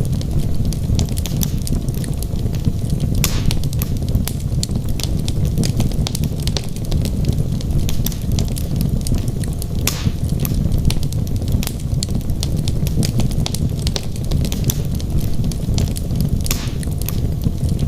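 Wood fire burning in a fireplace: a steady low rumble of the flames with many sharp crackles and pops from the burning logs, a few louder pops scattered through.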